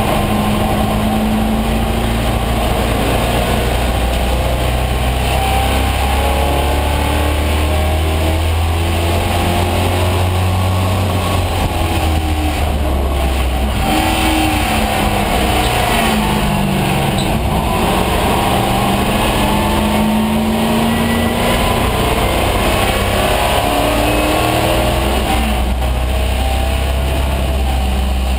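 1974 AMC Javelin AMX race car's engine running hard under racing load, heard from inside the stripped, roll-caged cabin. Its pitch rises and falls over and over as the car accelerates and slows through the corners.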